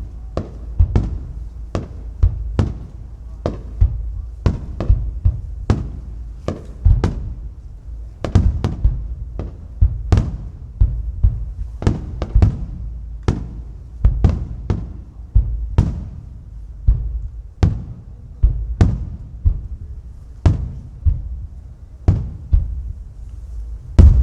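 Aerial fireworks shells bursting in rapid succession: sharp bangs one to two a second, uneven in loudness, over a deep rumble of echoing booms.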